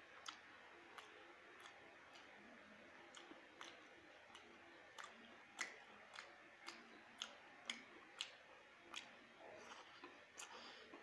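Faint wet mouth clicks and lip smacks from chewing a mouthful of khichuri rice and mutton, about two a second at uneven spacing.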